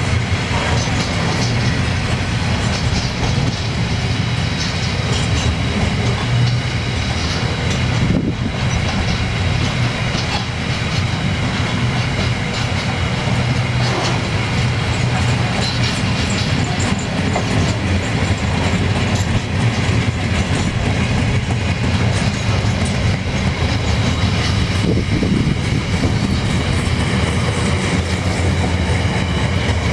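Steel-carrying freight wagons rolling past at close range: steady, loud wheel-on-rail noise that keeps up without a break.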